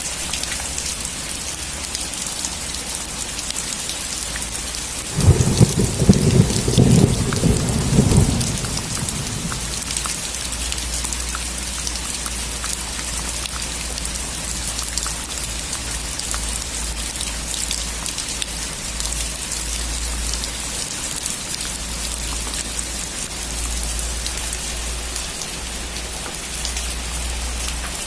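Steady heavy rain with a hiss of drops on a surface. About five seconds in, a clap of thunder breaks in suddenly and rumbles for about three seconds before fading back under the rain.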